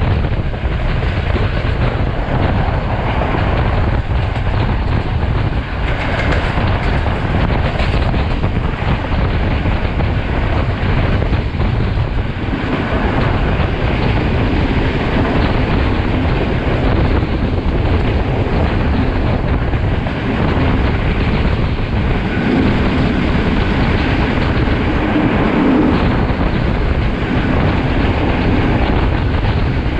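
Sri Lankan passenger train running fast, heard from an open coach window: steady rumble of wheels on rail with rushing wind.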